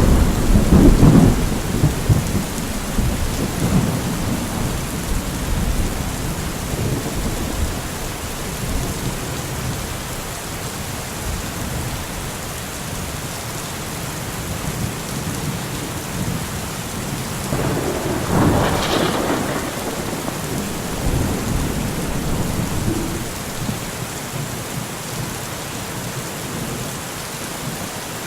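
Steady rain falling through a thunderstorm. A loud low rumble of thunder opens and dies away over several seconds, and a sharper thunderclap about two-thirds of the way through rolls off into lower rumbling.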